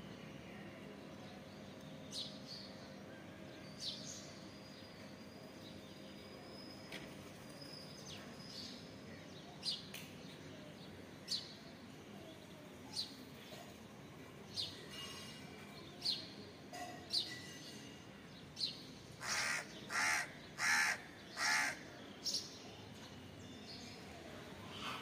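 Outdoor birds calling: scattered short, high chirps, then four louder calls in quick succession near the end.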